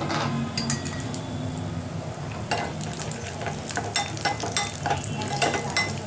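Cashew nuts frying in hot ghee in a small saucepan, sizzling steadily, while a spoon stirs them, with many sharp clicks and scrapes against the pan that come thicker from about halfway through.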